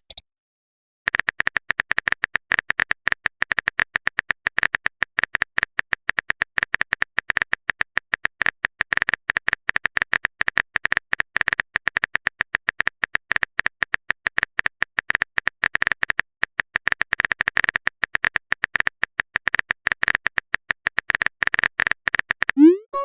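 A rapid, unbroken string of short electronic clicks, all at one high pitch, like a text-typing blip sound effect. It starts about a second in and runs for about twenty seconds.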